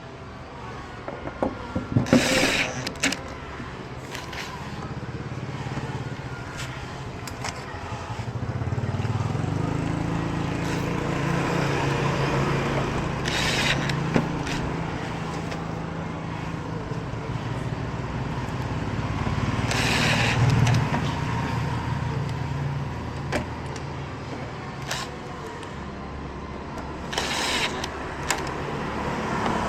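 A motor vehicle's engine running on the move, its hum rising and easing off with speed. A few short bursts of rushing noise come and go over it.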